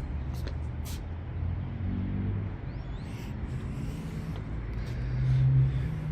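A low, steady mechanical drone with a hum that swells louder about five seconds in, along with a few light clicks.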